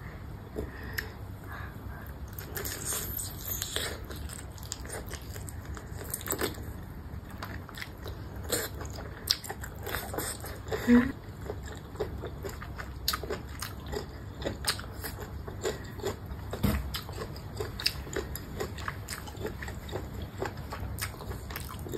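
Close-miked biting and chewing of cooked baby squid, made up of many small wet mouth clicks and smacks. One sharper click comes about halfway through.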